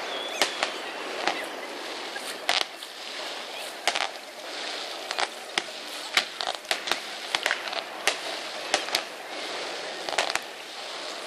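Fireworks going off: a string of sharp bangs and crackles at irregular intervals, bunched several a second at times, over a steady background hiss.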